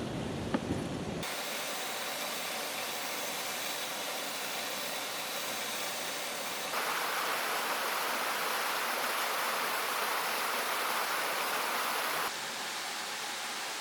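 Rushing water of a mountain stream, a steady hiss. It changes abruptly a little over a second in, again about halfway through, and near the end, and is louder and brighter in the middle stretch. A few small knocks and low rumble come in the first second.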